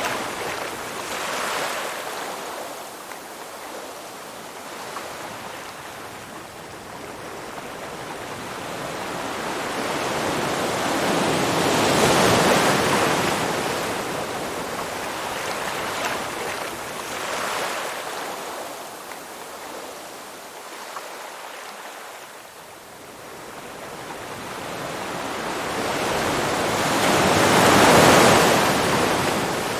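Ocean waves washing onto a shore: a rushing surf that swells and falls slowly, with loud breaks about twelve seconds in and again near the end.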